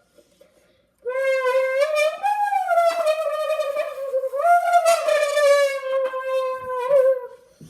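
A person's voice humming into a can to imitate a Lamborghini engine. It starts about a second in as one unbroken hum that rises in pitch twice, like revs, and slowly falls back each time.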